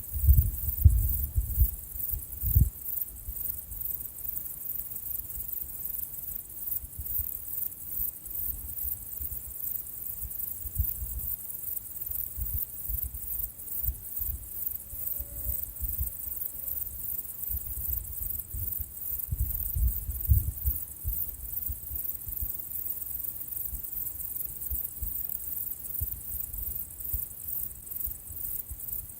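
Outdoor nature ambience: a steady, rapidly pulsing high-pitched chirring like insects, over irregular low rumbling gusts like wind on the microphone.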